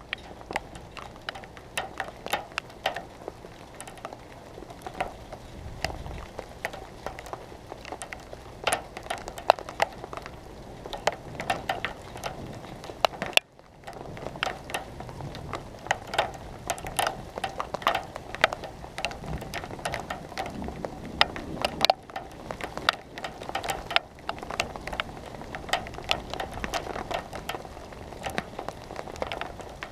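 Raindrops striking a hard surface right by the microphone: a dense, irregular patter of sharp ticks, several a second, over a faint hiss of rain.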